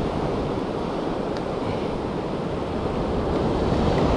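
Ocean surf washing steadily against a concrete tetrapod breakwater, with some wind on the microphone. The wash grows a little louder about three seconds in.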